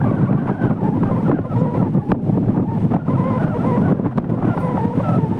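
Strong wind buffeting the microphone, a loud, steady, low rumble with no let-up.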